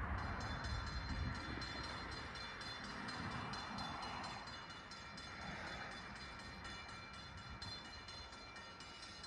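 Distant approaching electric push-pull commuter train, not yet close: a low rumble with several thin, steady high-pitched tones over it.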